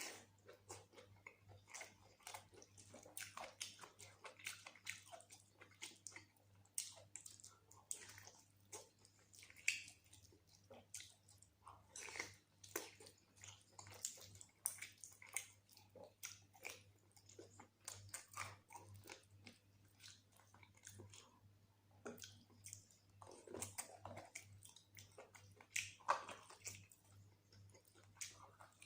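Close-miked chewing and eating of mutton curry and rice: a continuous run of short, irregular wet smacks and mouth clicks. A faint steady low hum lies underneath.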